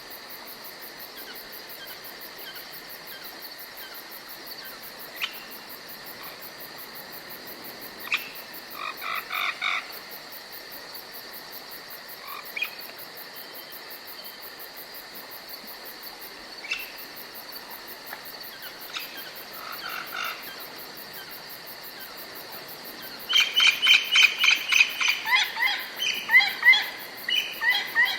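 Forest ambience: a steady high insect drone with short animal calls scattered through it. There is a quick series of repeated notes about eight seconds in, and a louder run of rapid notes over the last five seconds that steps down in pitch at the end.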